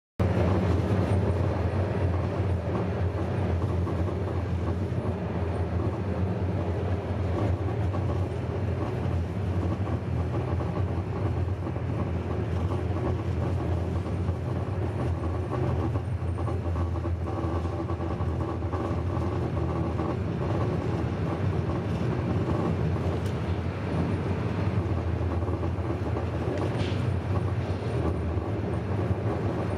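Steady running noise of a moving train heard from on board: a continuous low rumble of wheels on the rails and the carriage, with no marked changes.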